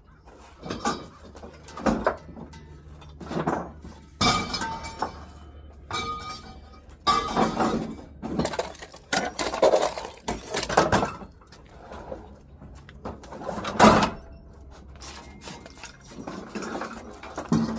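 Hard junk objects knocking and clinking against each other as they are handled or tossed, a series of irregular clattering impacts with brief ringing, the loudest about three-quarters of the way through.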